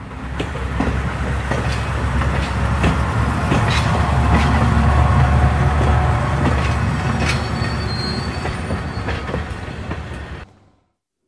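Train passing: a heavy rumble with wheels clicking over the rail joints. It builds up, is loudest in the middle, fades a little, then cuts off suddenly about ten and a half seconds in.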